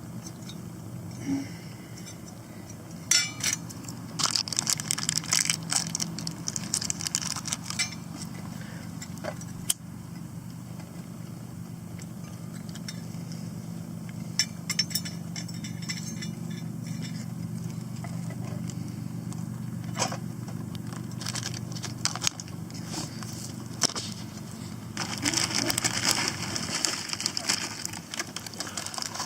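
Scattered metallic clinks, taps and scrapes of a small metal survival tin and folding stove being handled, over a steady low hum. Near the end comes a denser stretch of crackling and rustling.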